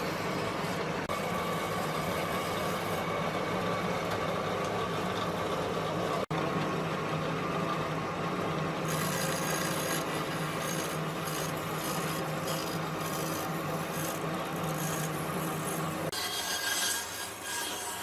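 Power tool abrading wood: a motor running steadily under a rasping grind, with a brief break about six seconds in and a harsher, higher scraping near the end.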